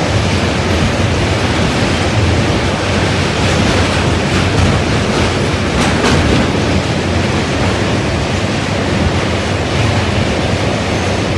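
Running noise of a MEMU electric passenger train crossing a steel truss rail bridge, heard from on board: a loud, steady rumble of wheels on the track, with a few sharper clacks about midway.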